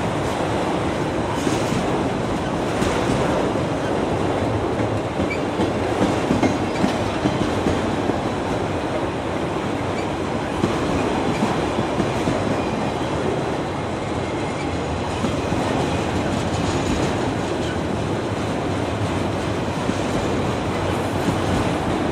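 Train cars rolling past: a steady rumble of steel wheels on rail, with a few faint clicks.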